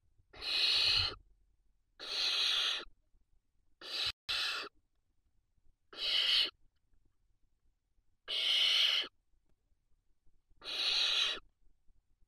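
Barn owl chicks giving rasping begging hisses in the nest: six calls, each under a second long, about one every two seconds, the third broken in two.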